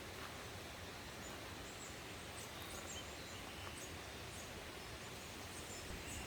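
Faint, steady outdoor background noise with a few short, high, faint chirps scattered through it.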